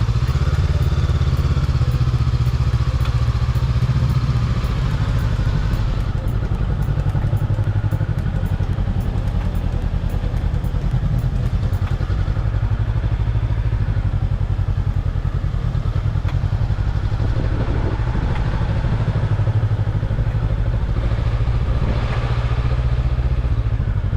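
Motorbike engine running steadily at low revs, a continuous low, pulsing sound.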